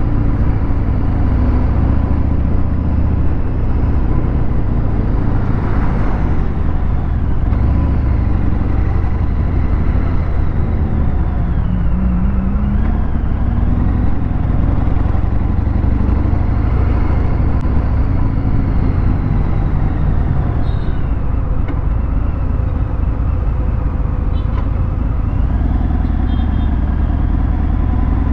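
Harley-Davidson Fat Bob 114's Milwaukee-Eight 114 V-twin running at low revs through a Vance & Hines PCX 2-into-1 exhaust, with a brief rise in engine pitch about twelve seconds in.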